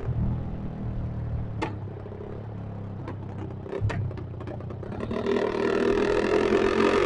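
Motorcycle with an open aftermarket exhaust running low, with one sharp pop about one and a half seconds in and a quick run of pops between three and four and a half seconds. The engine then revs up about five seconds in and stays higher to the end.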